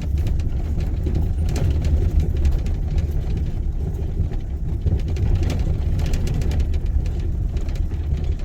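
Car interior noise while driving on a rough, bumpy road: a steady low rumble of engine and tyres, with frequent small knocks and rattles from the bumps.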